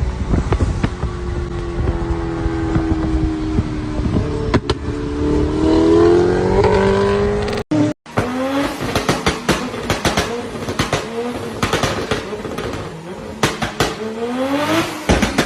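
Car engine revving through a blown exhaust, making a wailing tone that rises and falls with the revs. About eight seconds in, the revs change to quick blips with rapid popping and crackling.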